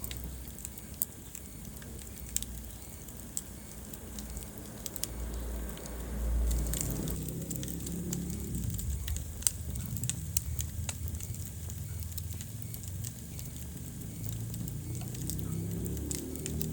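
Wood fire burning in a fireplace: a steady low rumble of flames with scattered sharp crackles and pops. The flames swell louder for a moment about six seconds in.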